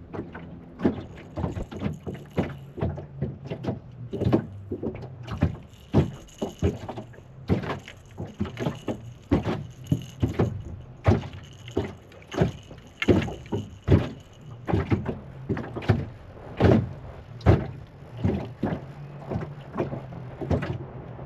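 Choppy water slapping against a boat hull in irregular knocks, one to three a second, over the steady low hum of an electric trolling motor.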